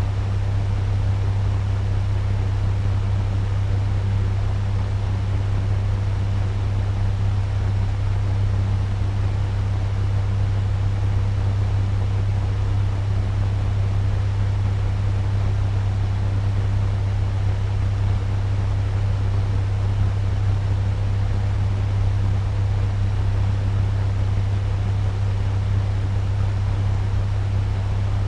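Turbo fan running steadily at medium speed: a strong low hum under an even rush of moving air.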